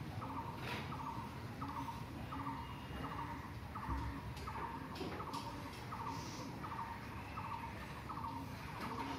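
A bird calling over and over: a short buzzy note repeated about every three quarters of a second, with a fainter lower note keeping the same beat.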